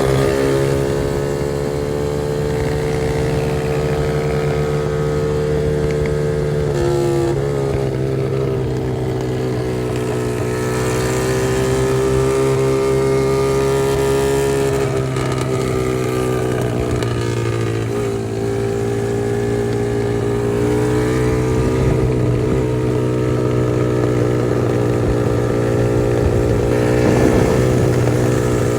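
Dirt bike engine running at a fairly steady speed, its pitch rising and dipping a little a few times.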